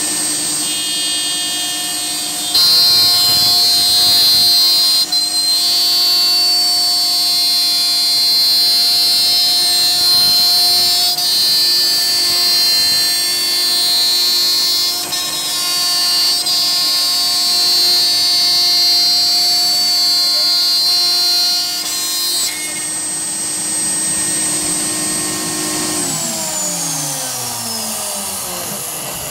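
A DIY CNC router's spindle whining steadily as it mills 1-inch HDPE, louder from a couple of seconds in until about twenty-two seconds. Near the end the spindle is switched off, and its whine falls steadily in pitch as it spins down.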